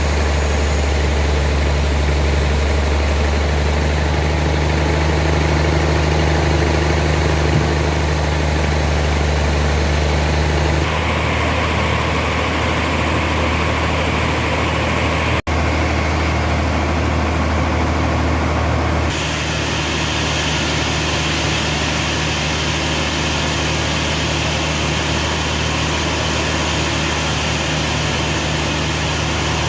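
Sawmill machinery running steadily with a deep, constant hum. The sound shifts abruptly about eleven seconds in, drops out for an instant near the middle, and changes again a few seconds later.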